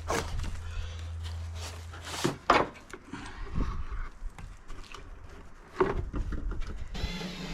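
A few scattered knocks and clanks of tools and parts being handled while working on a ride-on mower deck. Near the end a small electric tool starts to whir.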